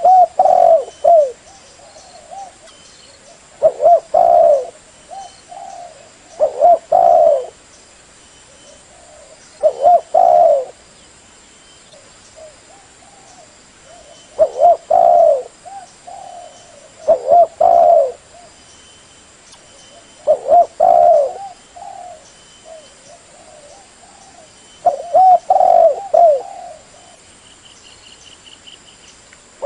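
Spotted dove cooing its song over and over. Each phrase is a short run of low coos, repeated about every three seconds.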